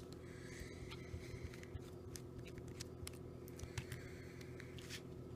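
Scattered small clicks and light scrapes of a Torx screwdriver and tiny screws on the plastic housing of a Nokia Lumia 635 being taken apart, over a faint steady low hum.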